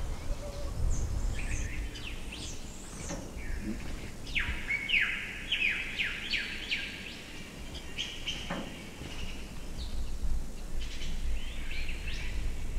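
Small cage birds chirping: short, sharply falling calls, with a quick run of them about four to seven seconds in, over a low background rumble.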